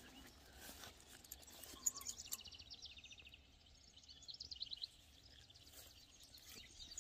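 Faint outdoor ambience with birds chirping, two short rapid trills of high chirps.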